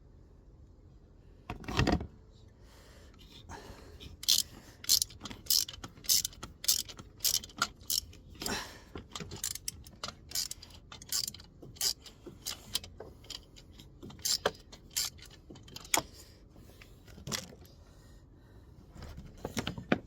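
Hand tools clicking and clinking on metal parts during work on an engine's belt drive: a louder knock about two seconds in, then a long run of sharp metallic clicks, about two a second, that thin out near the end.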